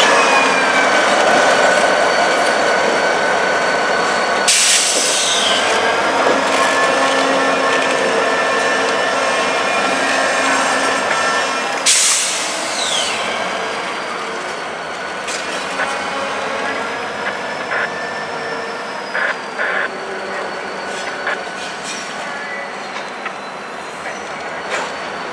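Freight train rolling on rails, with thin, wavering high-pitched wheel squeal over the running noise and two sharp clanks, one about four seconds in and one about twelve seconds in.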